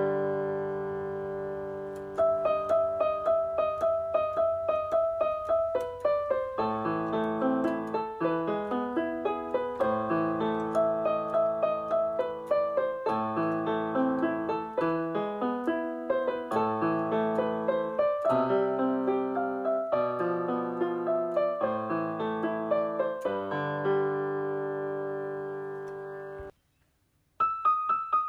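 Background piano music, many repeated notes over held chords, with a sudden break of about a second near the end before it starts again.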